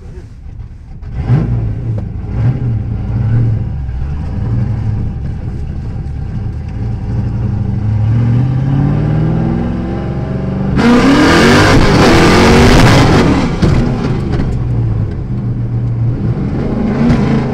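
Camaro Z28's 383 stroker V8 heard from inside the cabin, revving and pulling hard, its pitch climbing several times as the car accelerates. About eleven seconds in a loud rushing noise swells over the engine for two to three seconds.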